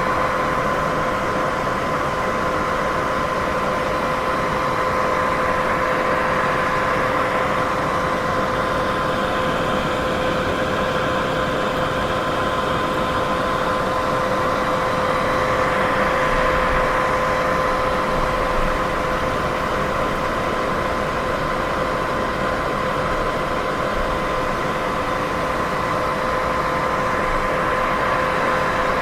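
Continuous white-noise sleep sound: a steady, even hiss with a constant hum-like tone and its overtones running through it, swelling and easing only slightly.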